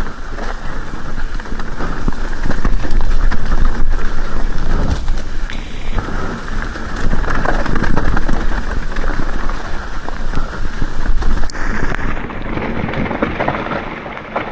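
Rain falling hard, with close drops spattering and a low rumble underneath, easing a little near the end.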